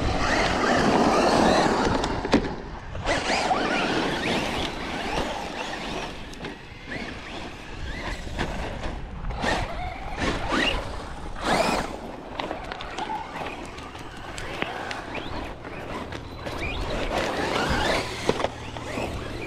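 Electric RC trucks driving over rocky dirt: tyres scrabbling and crunching on gravel, with motor whine rising and falling as they throttle on and off.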